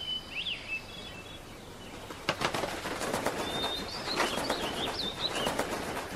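Cartoon sound effect of a small bird: a few whistled chirps, then, from about two seconds in, a rapid fluttering of wings with a run of high warbling chirps over it.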